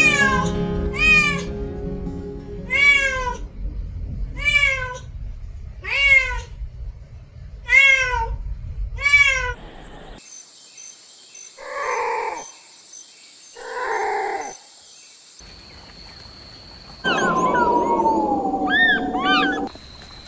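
A cat meowing over and over, about six meows spaced roughly a second and a half apart. In the second half come two short rough calls and then one longer call.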